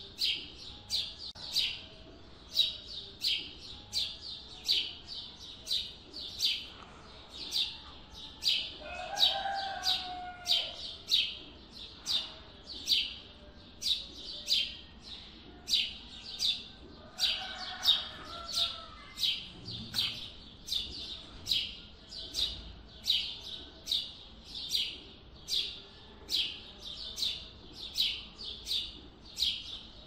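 A small bird chirping over and over at an even pace, about three short high chirps every two seconds. A second, lower call comes in twice, about nine seconds in and again near eighteen seconds.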